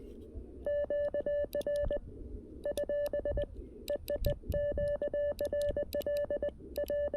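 Morse code keyed on a CFT-1 QRP transceiver: its sidetone, a single steady mid-pitched beep, sounds in quick dits and dahs in several bursts. Faint clicks come from the 3D-printed paddle key, and receiver hiss is heard between the bursts.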